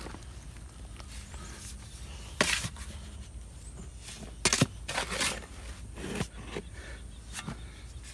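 A handful of scattered scrapes and knocks from soil and compost being worked by hand, over a faint steady low rumble.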